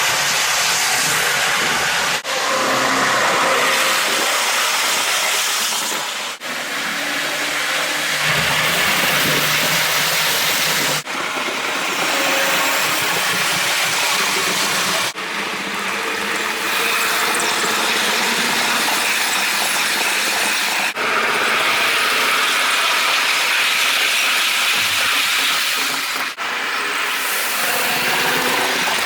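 HO scale model trains running on track, played back sped up: a dense, steady hiss of running noise, cut off abruptly and restarting every four to six seconds.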